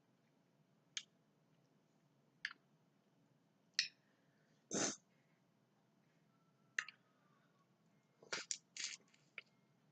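Close-up mouth sounds of someone eating seafood: short wet smacks and chewing noises, about half a dozen separate ones with a slightly longer one near the middle and a quick run of several near the end.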